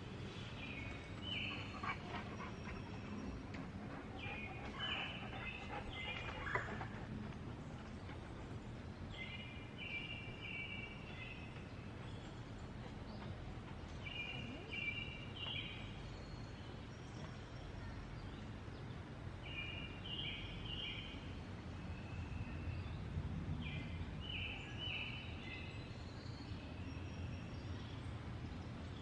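A wild songbird singing short, repeated high phrases about every five seconds over a steady low outdoor background noise. A few clicks come in the first several seconds.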